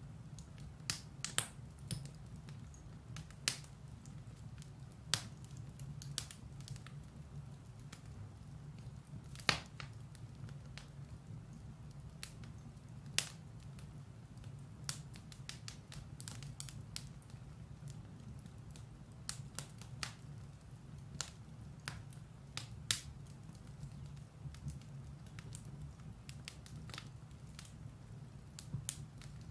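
Firewood burning in a fireplace: irregular sharp crackles and pops, a few of them loud snaps, over a steady low rumble.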